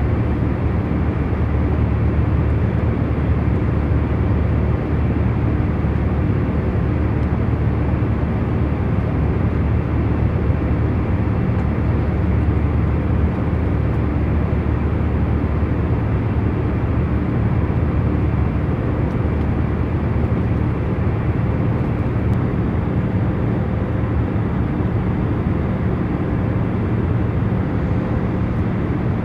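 Airliner cabin in cruise: a steady, low hum and rush of engine and airflow noise, with faint steady tones in it and no change.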